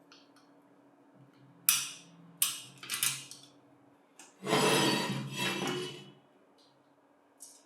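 Metal parts of a bench grinder's electric motor being knocked and handled during reassembly: three sharp knocks, then a louder rough clatter lasting about a second and a half.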